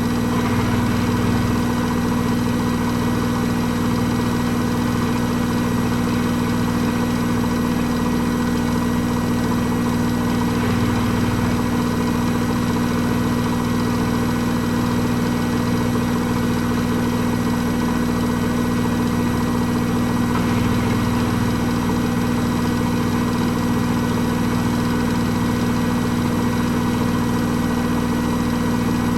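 Hoover H-Wash 300 Plus washing machine spinning at a constant speed: a steady motor whine over a low hum, with no change in pitch.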